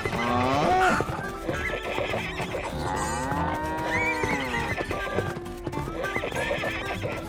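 Farm animals calling over background music: a horse whinnying, and a long call that rises and falls in pitch about three seconds in.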